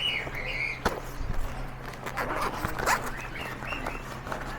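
A few sharp clicks and knocks from small objects being handled, with birds chirping in the background and a steady low hum.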